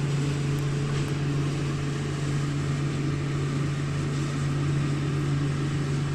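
A vehicle engine running steadily, giving a constant low drone.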